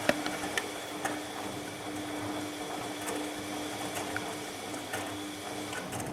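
Bosch MAXX 6 washing machine turning its drum in a boil-wash cycle: a steady motor hum under a wash of water and laundry noise, with scattered clicks. It winds down right at the end.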